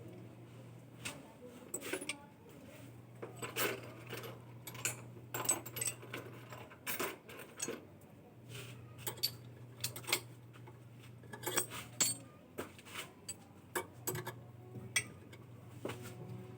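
Metal tools and parts clinking and tapping irregularly, many separate sharp clinks. A low steady hum drops out and comes back several times underneath.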